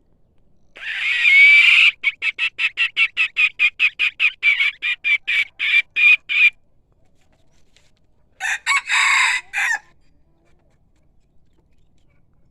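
Rooster crowing: a loud call about a second in runs straight into a rapid series of about twenty short notes, roughly four a second, and a second crow comes near the end.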